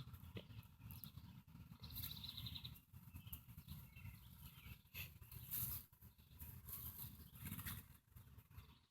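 A bird chirping faintly, with a short rapid trill about two seconds in, over a low rumble.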